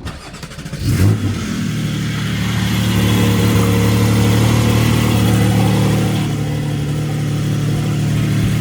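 Porsche GT4's flat-six engine starting: a short crank that catches and flares in revs about a second in, then settles into a steady high idle.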